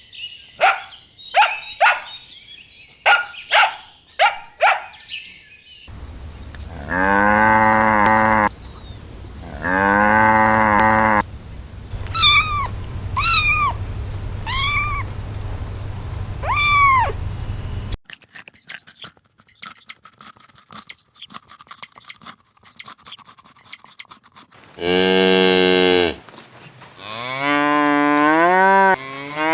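A string of different animal calls cut one after another. First come quick sharp chirps, then two long pitched calls of about a second and a half each, cattle-like lowing. Next are repeated swooping chirps over a steady high buzz, then rapid clicking, and finally another long call and a call that falls in steps near the end.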